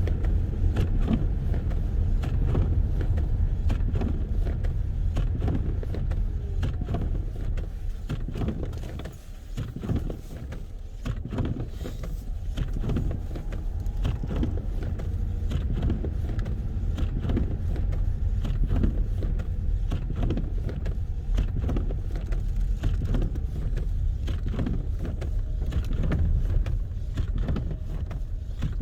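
Wind buffeting the microphone in a low, uneven rumble that eases briefly about nine seconds in.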